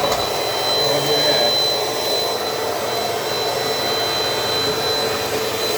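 Dirt Devil Dynamite Plus vacuum cleaner running steadily, its motor giving a constant rushing noise with a steady high whine.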